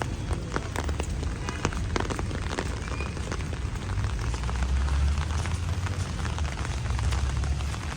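Heavy rain falling, a steady hiss with many sharp drop ticks close by, over a low steady rumble.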